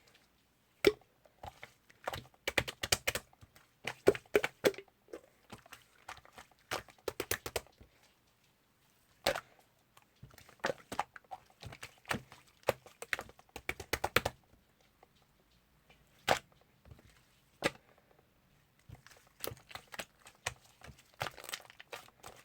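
Irregular clusters of quick clicks and light taps, with a few single sharper knocks and short pauses in between, like typing or tapping on a hard surface.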